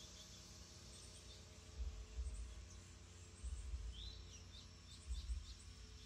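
Small birds chirping faintly in the distance: a few short high chirps, with one falling note about four seconds in. Intermittent low rumbles come and go underneath.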